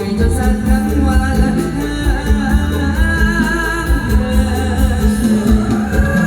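Live mor lam band playing: a singer's wavering melody over a heavy, steady bass and drum beat.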